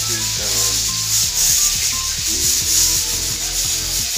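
Whole fish frying in hot oil in a pan, a steady loud sizzle.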